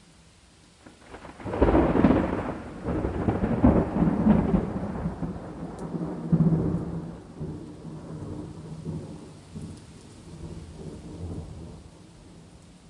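A thunderclap over steady rain: it cracks loudly about a second and a half in, then rolls and rumbles in waves, fading out over the next ten seconds until only the rain is left.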